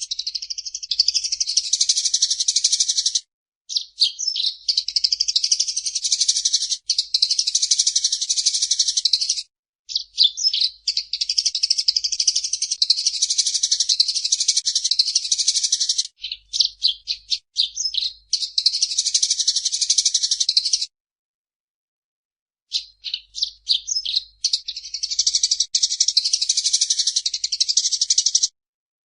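Eurasian tree sparrow chattering in long runs of rapid, high chirps lasting several seconds each, broken by brief silent gaps.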